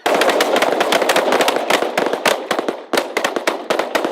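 Volley of shotgun fire from a team of goose hunters: many overlapping shots break out all at once, then thin to separate shots near the end.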